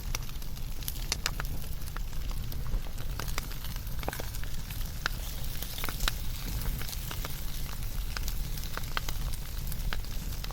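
Wood fire burning, with frequent irregular sharp crackles and pops over a steady low roar of the flames.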